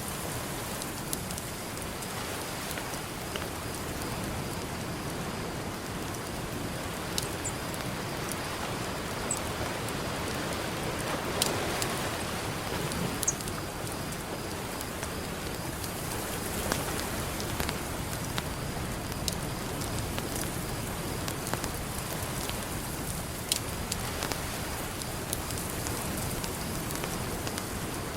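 Campfire crackling with scattered sharp pops over a steady wash of ocean surf, which swells briefly about halfway through.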